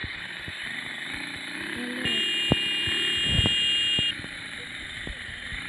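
Motorcycle on the move with a steady rush of engine and wind noise. In the middle a high steady beep sounds for about two seconds, over a low engine note that swells at the same time.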